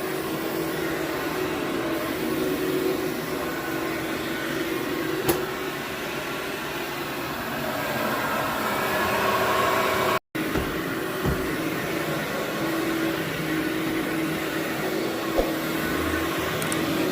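Vacuum cleaner running steadily on carpet, its motor noise carrying a steady low hum. About ten seconds in, the sound drops out completely for an instant.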